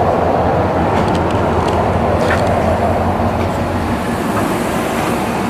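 Dodge Charger Hellcat's supercharged V8 engine running with a steady, even hum.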